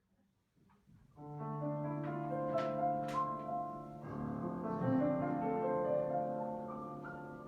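Grand piano playing a slow introduction, starting about a second in: held chords low down with a melody of single notes above, moving to a new chord about four seconds in.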